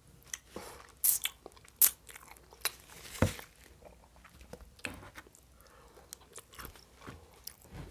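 Close-miked chewing of a mouthful of thin-crust Hawaiian pizza: a few sharp crunches of crust in the first three seconds or so, then softer, wetter chewing clicks.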